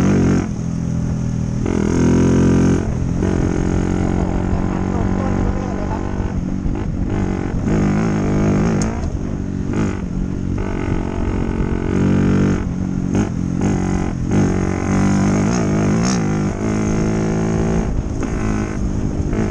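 Dirt bike engine running under way, its pitch rising and falling with the throttle, with short dips every few seconds.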